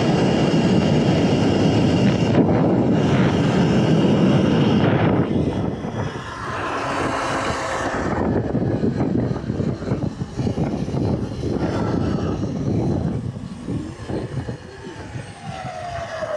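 Wind rushing over the microphone with tyre and road noise while riding a Surron electric dirt bike. It is loudest for the first five seconds, then eases as the bike slows, with a falling whine near the end.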